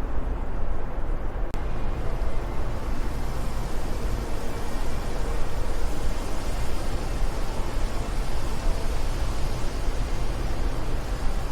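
Steady wind noise, a low rumble with a hiss above it and no distinct events, except a brief click and dropout about one and a half seconds in.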